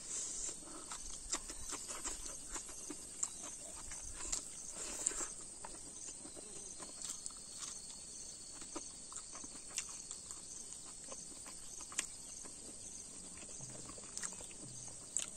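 Close-up eating sounds: irregular wet chewing clicks and lip smacks as rice and curry are eaten by hand. Behind them, a steady high insect chirring with a regular pulse.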